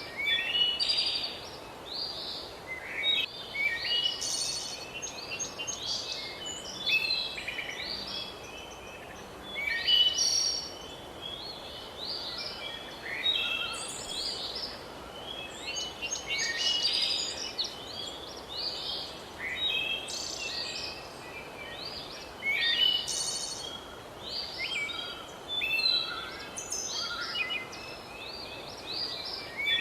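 Birdsong chorus: several birds chirping and trilling in quick, overlapping short phrases, over a steady background hiss.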